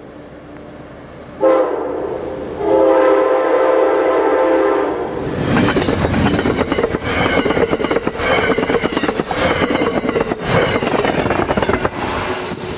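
Train air horn at a grade crossing: a short blast about a second and a half in, then a long blast, ending the crossing signal. The train then passes close, loud and rushing, with its wheels clattering over the rail joints.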